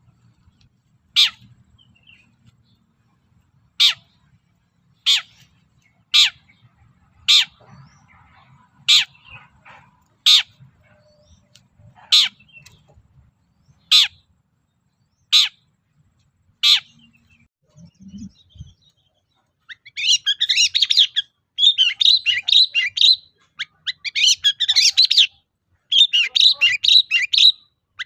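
Long-tailed shrike singing. It starts with a string of single sharp call notes one to two seconds apart, then about two-thirds of the way through breaks into rapid chattering song in several bursts.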